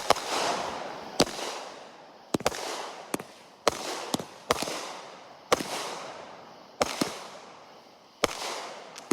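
A 20-shot consumer firework cake firing its shots: about a dozen sharp bangs, roughly one a second at uneven spacing, each followed by a fading hiss.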